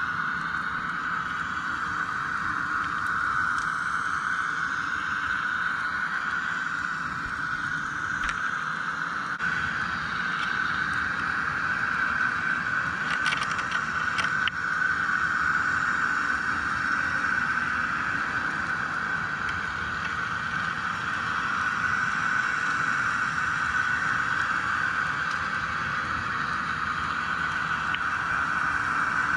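Steady drone of a fishing boat's engine heard underwater through a submerged camera, with a few faint clicks about halfway through.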